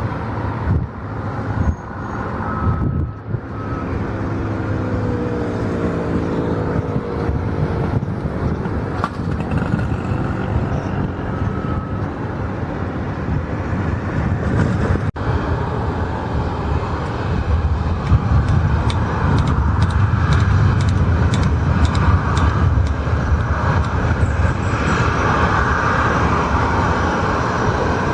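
Continuous engine rumble with a falling whine a few seconds in, growing louder over the last third.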